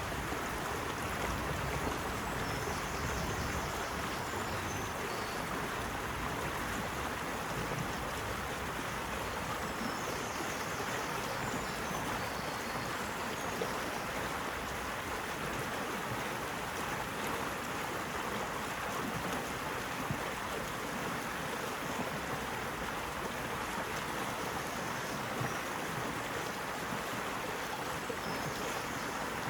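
Steady rushing of flowing water, like a stream, with no surges in level. Faint, brief high chirps come and go now and then.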